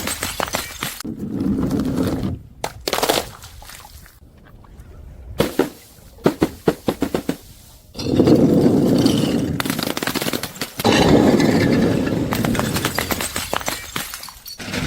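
Objects being crushed: dense crunching and crackling full of sharp cracks, in long loud stretches, with a quieter spell in the middle that holds only scattered cracks.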